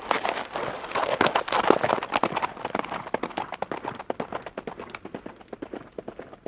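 Horse hooves clattering at a run, a rapid, dense stream of hoofbeats that grows fainter over the last few seconds.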